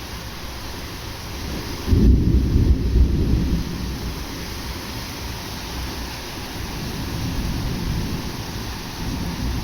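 Thunder rumbling over steady rain during a sudden summer thunderstorm. A loud, deep peal breaks in about two seconds in and fades after a second or so, and another low rumble builds near the end.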